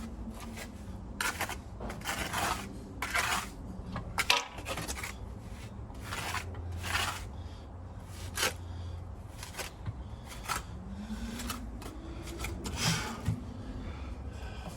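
A series of short, irregular scraping strokes, like a hand tool scraped over mortar or concrete, about a dozen in all.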